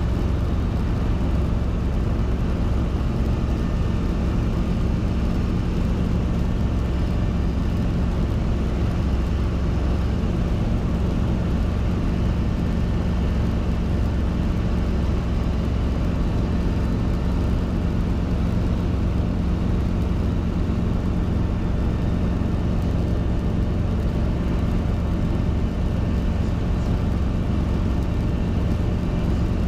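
Robinson R22 helicopter in flight: a loud, steady drone of its piston engine and rotors, with no change in pitch or level.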